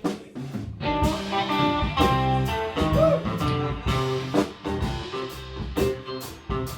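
Live rock band playing, starting suddenly: electric guitar lines over bass and a steady drum beat.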